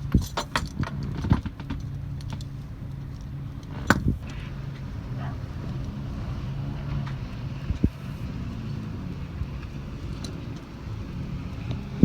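A sailboat's inboard engine running steadily, with a cluster of sharp clicks and knocks in the first second or so and single louder knocks at about four and eight seconds.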